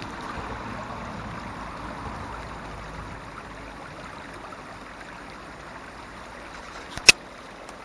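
Small stream running steadily, water trickling. A single sharp click about seven seconds in.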